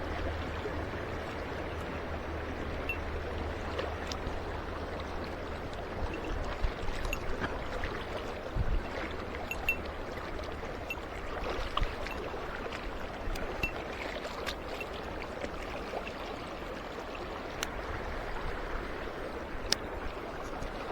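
Mountain stream water running steadily, with scattered faint clicks and a few soft knocks over it.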